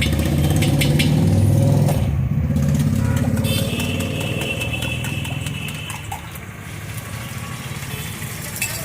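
Motorcycle engine running close by, loudest for the first three seconds and then fading away.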